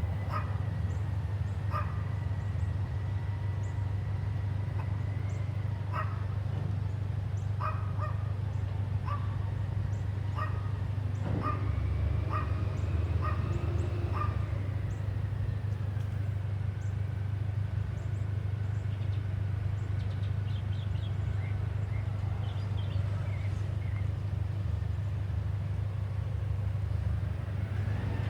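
CNG Peterbilt 320 front loader garbage truck running with a steady low engine rumble and a hydraulic whine that rises in pitch about halfway through. A series of short sharp sounds, roughly one a second, comes through in the middle.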